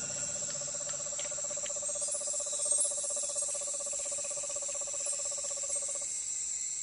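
Night rainforest sounds: a rapid trilling call held at one pitch for about six seconds, which cuts off suddenly, over a constant high-pitched insect chirring.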